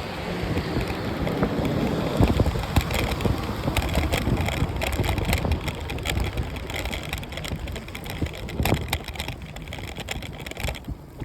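Bicycle riding: a steady rush of wind and tyre noise on the microphone, with frequent small clicks and rattles throughout.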